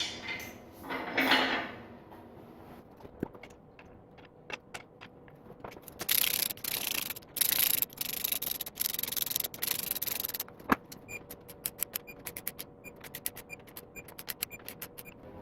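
Hand-tool work on engine parts: scattered clicks, then about four seconds of rubbing or scraping, then a fast run of light clicks.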